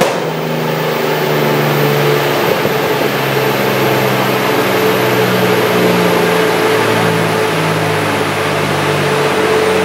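Toyota 2JZ straight-six in a Mazda RX-8 running on a chassis dyno at a fairly steady speed, with a steady whine over the engine note, while the engine misfires.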